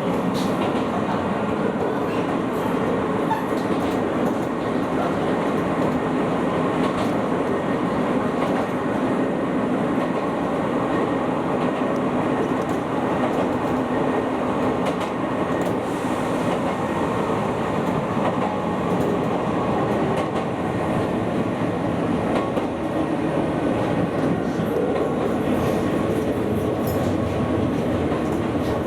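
Izuhakone Railway 7000 series electric train running, heard from the driver's cab: a steady rumble of wheels on rail with occasional clicks over rail joints.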